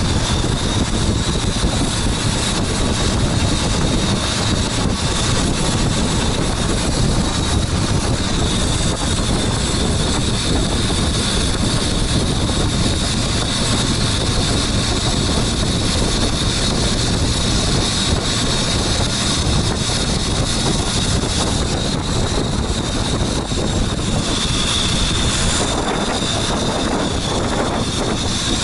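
A boat's engine running steadily under way, with a thin high whine over a constant rush of wind and water.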